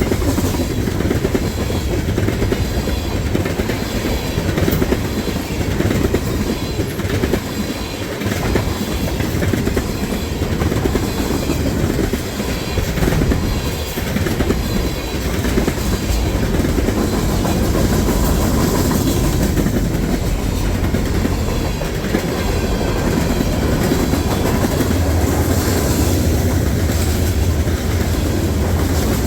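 Freight train cars rolling past, with steady wheel rumble and repeated clickety-clack of wheels passing over rail joints.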